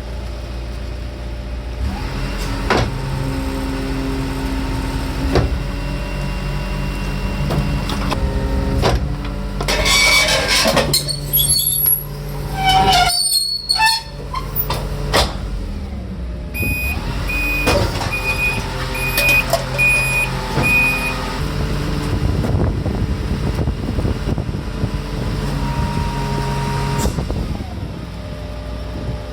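Press-type garbage packer truck running its engine and hydraulic press mechanism, which hums steadily. Between about 9 and 15 seconds non-burnable waste clatters and crunches as it is crushed. Later a run of about six short, evenly spaced warning beeps sounds.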